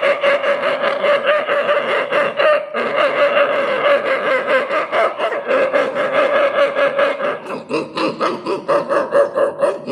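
A man imitating a pack of street dogs barking together with his voice: a rapid, unbroken run of barks and yelps.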